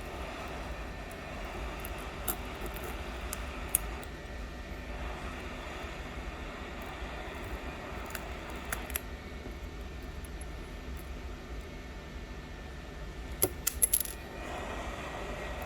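Small sharp glass clinks as a tool chips cracked back glass off an iPhone 11's frame: a few scattered taps, then a quick cluster of louder ones near the end, over a steady background hum.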